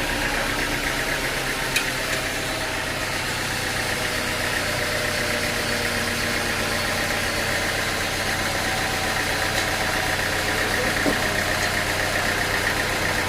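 An engine running steadily at a constant speed, with a sharp click a couple of seconds in and a lighter one near the end.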